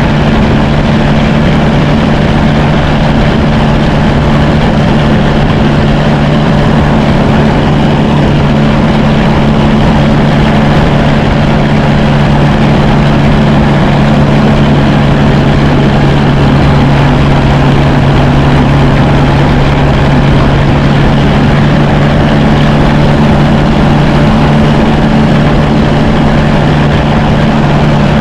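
Engine of a 1954 Fordson Major tractor idling at an even, unchanging pitch.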